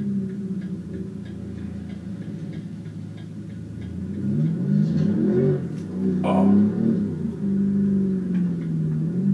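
BMW M5 F90's twin-turbo V8 heard from inside the cabin: the engine note falls off at first, then rises as the car accelerates about four seconds in, with a sharp crack about six seconds in before it settles to a steadier note. A faint regular ticking runs underneath.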